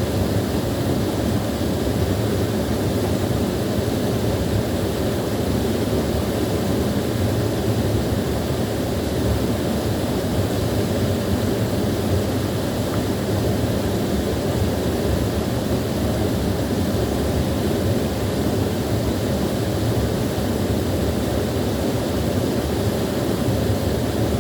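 Small waterfall pouring steadily, a constant deep rush of falling water.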